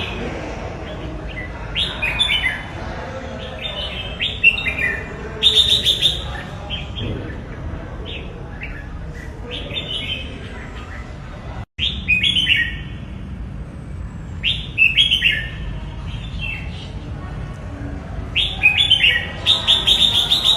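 Red-whiskered bulbul singing: short, bright whistled phrases, each a quick run of falling notes, repeated every couple of seconds over steady background noise. The sound cuts out for an instant a little past halfway.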